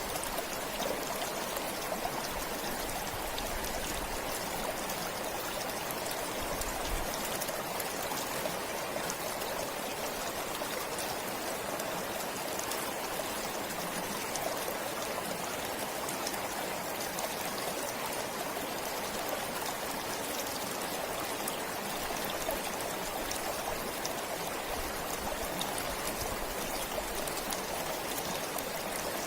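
Forest stream flowing steadily over stones, a continuous even rush of water with fine trickling and splashing.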